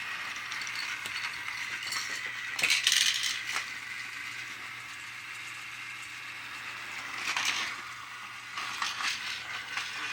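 Small battery-powered toy motor whirring steadily, with bursts of plastic clicking and rattling about a third of the way in and again near the end.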